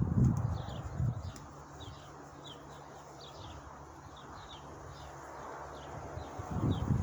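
A small bird chirping over and over, short downward chirps two or three a second. Low dull thumps and rumbles come at the start, about a second in, and again near the end.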